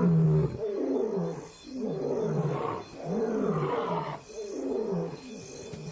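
Male lions roaring, a run of grunting calls about one a second that rise and fall in pitch and fade toward the end. This is a territorial roaring bout that warns off rival lions.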